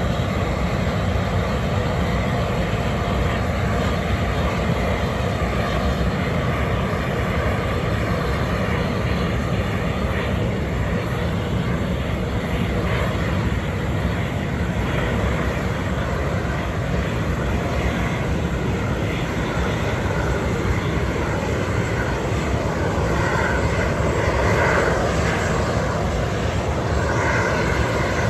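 Airbus A330-300 airliner's twin turbofan engines running at low, taxiing power as it rolls onto its parking stand: a steady rumble with a whine, the whine's tones shifting slightly near the end.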